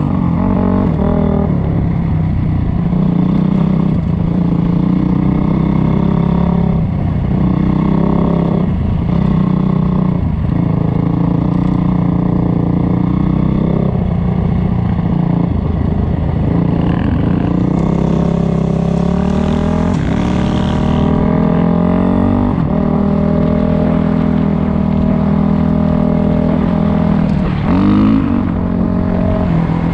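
Dirt bike engine running under throttle. Its pitch climbs and drops again and again as the revs rise and the gears change, with a sharp rev near the end.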